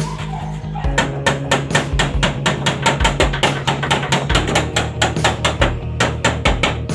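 Rapid, even hammer blows on metal, about four to five a second, starting about a second in, over background music with a steady bass line.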